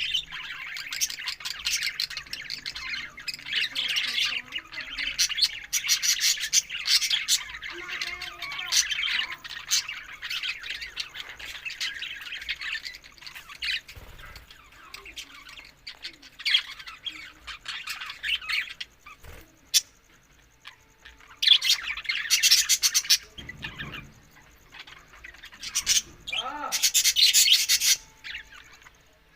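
Budgerigars chattering and squawking: a long stretch of busy warbling chatter, then short bursts of harsh calls with quieter gaps between them.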